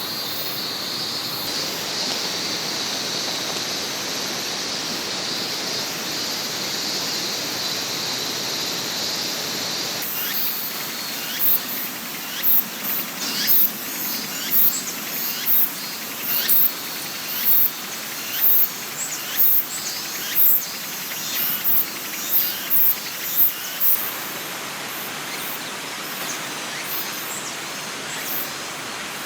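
Steady rushing of a forest river, with a high insect drone over it for the first ten seconds. Then, about ten seconds in, a run of short, sharp, high-pitched chirps comes in at roughly one a second, ending near the last few seconds as the water sound goes on.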